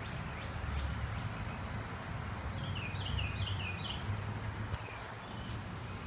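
A small bird calling a quick run of four high chirps, each sliding downward, about halfway through, over a steady low outdoor rumble. Two faint ticks come near the end.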